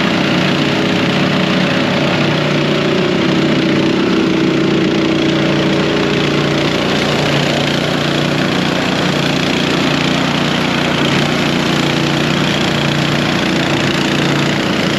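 An engine running steadily at an even speed, with a steady hiss over it.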